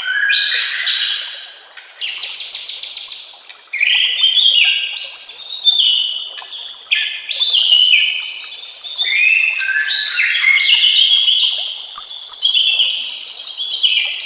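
White-rumped shama (murai batu) singing a fast, varied string of loud whistles and trills, with brief breaks about two and four seconds in.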